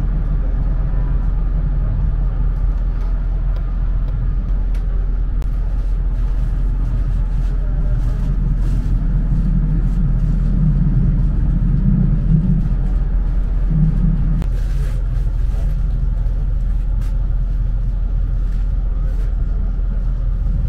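Running noise of a EuroCity passenger train at speed, heard from inside the carriage: a steady low rumble of wheels on rails, with scattered light clicks.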